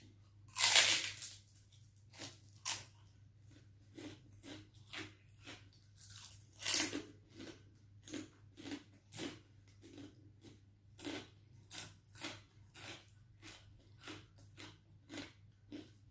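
Bites into crunchy chicharon (fried pork rinds): two loud crunches about six seconds apart, each followed by steady crunchy chewing at about two chews a second.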